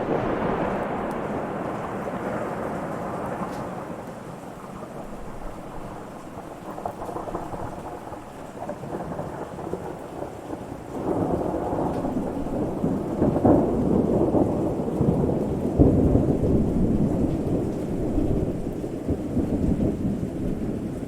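Thunder rumbling over steady rain. A loud peal at the start rolls away over a few seconds. A second, longer rumble builds about halfway through and swells to its loudest a few seconds later.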